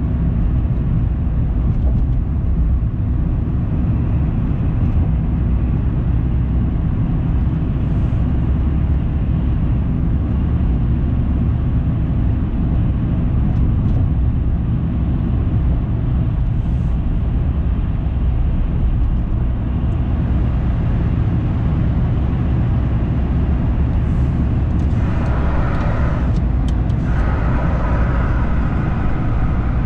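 Car driving: a steady low rumble of road and engine noise, with a louder, higher hum from about 25 seconds in for several seconds.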